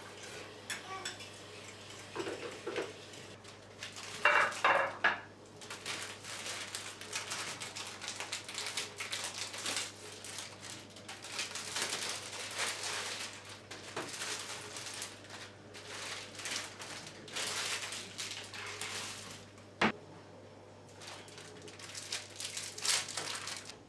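Kitchenware handled, with dishes and cutlery clattering and knocking throughout and one sharper knock near the end.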